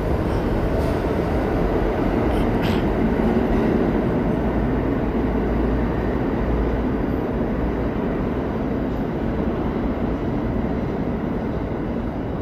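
New York City subway train running through the station with a steady loud rumble of wheels on rails. A short, sharp high-pitched click comes about two and a half seconds in.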